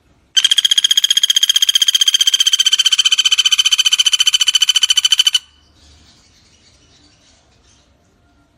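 Pelatuk bawang woodpecker calling: one rapid, even rattling trill on a steady pitch, lasting about five seconds and starting about half a second in.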